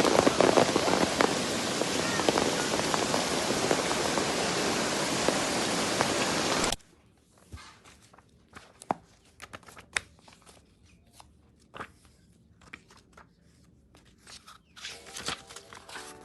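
Steady heavy rain, a dense hiss with fine crackling, that cuts off abruptly about seven seconds in. After it, faint scattered taps and clicks.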